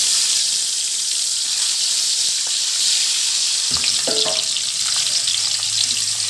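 Boiled eggs sizzling as they fry in hot oil in a kadai, a steady high hiss. From a little before four seconds in there are a few scrapes and knocks of a slotted spatula against the pan.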